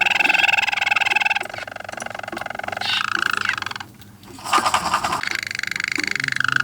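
Roller canary singing its rolling song: long, evenly pulsing rolls that change pitch every second or two. About four seconds in there is a brief break, then a quick rapid burst, then another sustained roll.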